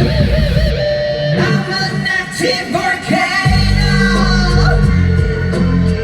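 Live pop-rock song played loud over a concert sound system, a male singer's voice carrying a wavering melody. About three and a half seconds in, a heavy bass and drum beat comes in under the vocal.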